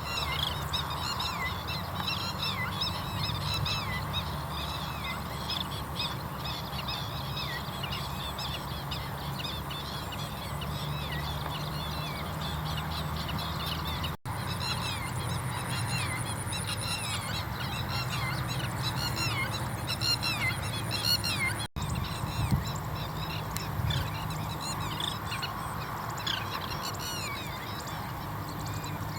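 Oriental pratincoles calling over and over in short, sharp, downward-sliding notes, several birds overlapping, over a steady low hum; the calls of adults around their newly hatched chicks.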